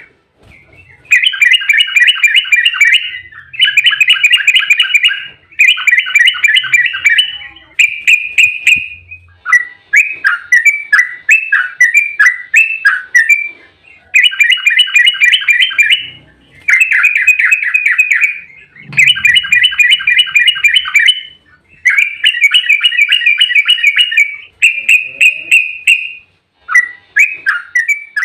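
Yellow-vented bulbul (trucukan) singing a fast rolling 'ropel' song: rapid chattering phrases of about two seconds each, repeated with short breaks. Slower, bubbly sliding notes come in between some of the phrases.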